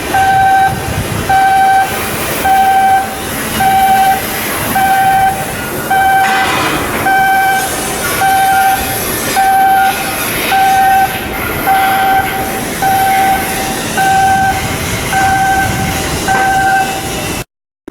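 An electronic warning beeper sounding a steady, single-pitched beep about once a second, over constant background noise. The audio cuts out briefly near the end.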